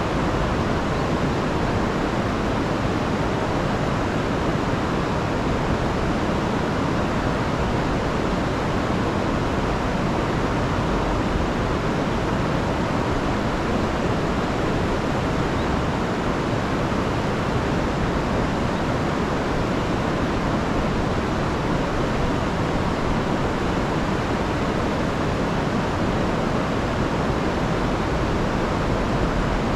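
A rain-swollen river rushing over waterfalls: a steady, unbroken wash of water noise, heavy in the low end.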